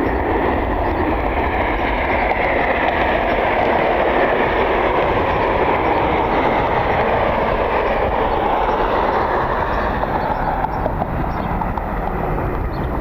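Jet airliner going by, a loud steady rush of engine noise whose pitch slowly shifts, with wind rumbling on the microphone.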